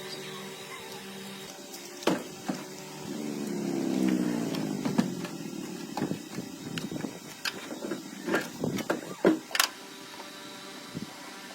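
A motor-driven machine briefly runs, its pitch bending as it swells and fades, followed by a run of irregular sharp knocks and clicks.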